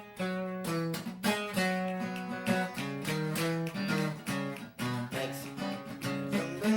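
Acoustic guitar strumming a run of chords in a steady rhythm, with no singing.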